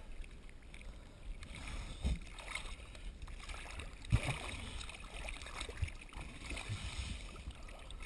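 Water sloshing and lapping around divers floating at the surface, with a few dull thumps.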